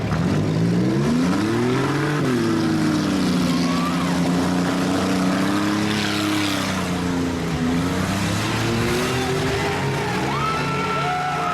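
Demolition derby cars' engines revving up and down, several at once, their pitch rising and falling as they accelerate and back off. Near the end a higher wavering tone joins in.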